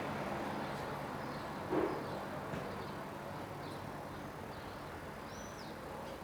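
Steady outdoor street background with a few faint, high bird chirps in the second half. A short, dull sound about two seconds in is the loudest moment.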